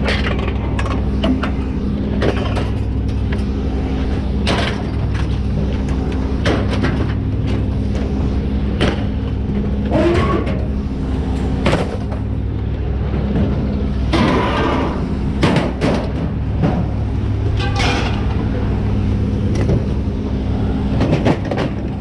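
Pickup truck running with a steady low drone, with frequent short clicks and rattles over it.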